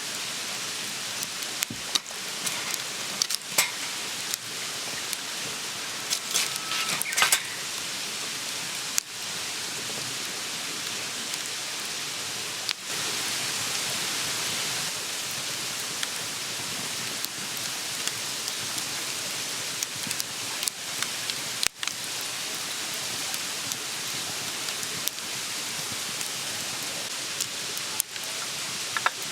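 Steady hissing noise with many short crackling ticks scattered through it.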